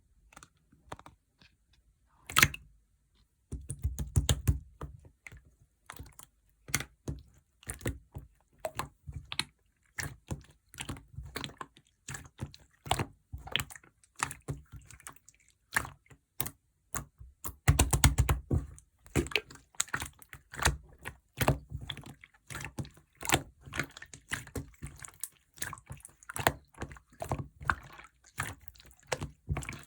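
Orange clear slime being pressed and squished by hand, giving fast, irregular runs of small clicks and pops. After a near-silent start and a single sharp click, the clicking runs on continuously from about three seconds in.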